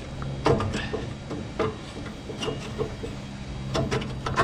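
Scattered knocks and clinks of metal grill parts being handled and worked loose while the burners are pulled out, with more of them near the end over a steady low hum.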